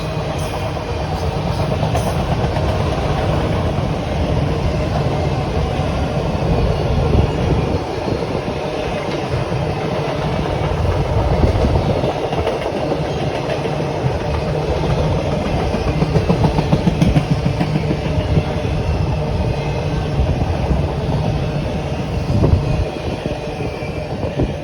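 A train rolling past close by, its railcar wheels clicking over the rail joints, with a run of quick clacks about two-thirds of the way through.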